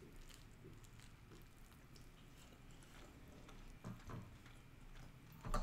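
Faint chewing of a mouthful of lettuce wrap, with a few soft clicks, and two small knocks about four and five and a half seconds in.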